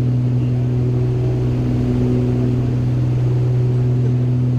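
Steady drone of a Beechcraft Baron G58's twin six-cylinder piston engines and propellers: a strong low hum with a couple of steady higher tones above it.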